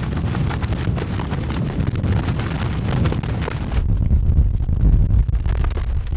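Strong wind buffeting the microphone: a heavy, gusty low rumble, with a stronger gust about four seconds in.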